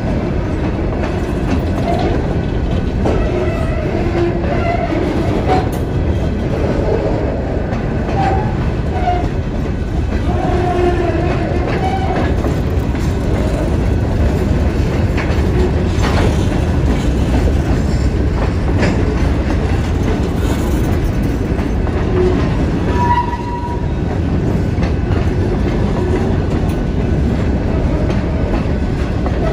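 Empty open-top hopper cars of a Wheeling & Lake Erie stone train rolling past: a steady rumble and clatter of steel wheels on the rails, with short wheel squeals now and then, one higher one a little before the end.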